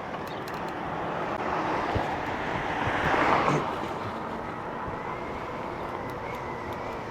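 Road traffic going by, with one vehicle growing louder to pass at its loudest about three seconds in and then fading away.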